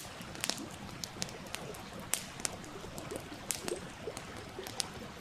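Wood campfire crackling, with sharp irregular pops about twice a second, over the steady rush and burble of a stream.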